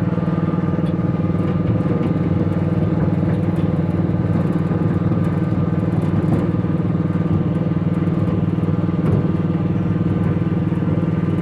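Small engine of a ride-on vehicle running steadily as it drives along, a constant hum with no change in speed.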